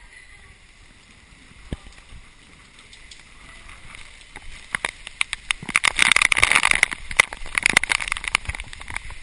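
Typhoon wind buffeting the camera: a dense run of crackling and spattering noise that builds about five seconds in and eases near the end.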